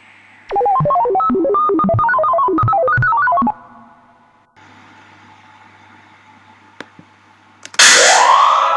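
Sound clips played through a laptop's speakers: a fast tune of short notes running up and down for about three seconds, then a pause with a few faint clicks, and near the end a loud tone that sweeps up in pitch and holds.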